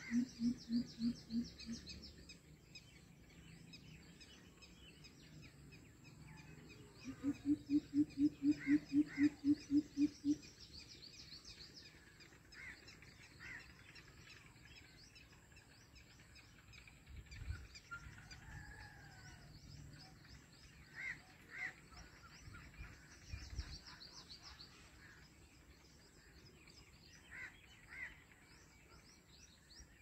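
Wild birds calling outdoors. The loudest is a deep call repeated about three times a second, heard in two runs: one at the start and one from about seven to ten seconds in. Scattered higher chirps, often in pairs, and a steady high chirring run beneath it.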